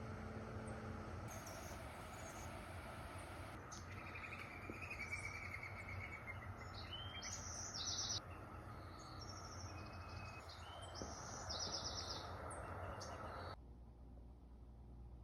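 Small birds chirping, with quick trills and fast repeated notes, over a steady outdoor background hiss. The sound cuts off abruptly about a second and a half before the end.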